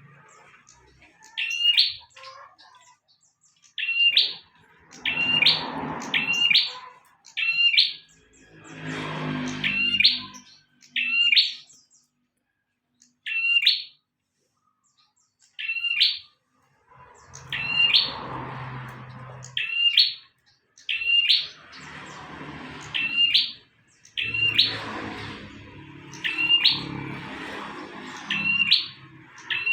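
A prenjak (prinia) calling over and over: short, sharp, high chirps, each a quick upswept note, repeated roughly once a second and sometimes in quick pairs. A low rumbling noise comes and goes beneath the calls.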